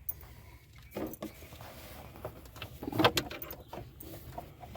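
Scattered light knocks and clicks of hands and tools handling trim pieces and screws under a truck's dash, a few about a second in and a cluster around three seconds in.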